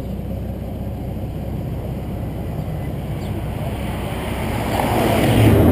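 Road and running noise of a 2007 Nissan Maxima driving, a steady low rumble that grows louder and fuller near the end. No brake squeal is heard from its Wilwood BP-10 pads.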